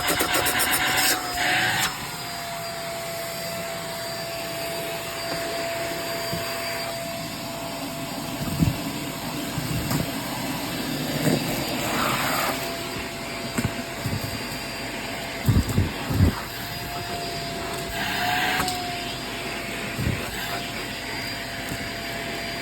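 Hoover React cordless stick vacuum running with a steady motor whine while it sucks up large debris. Grit and bits rattle up the tube at the start and again near the end, with a few dull knocks in between.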